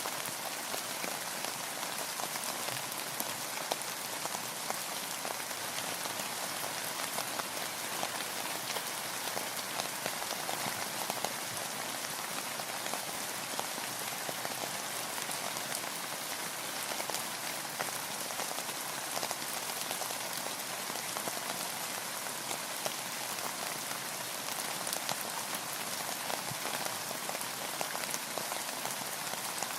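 Steady rain falling on a boat, a dense patter of drops strongest in the upper range with many small individual drop ticks.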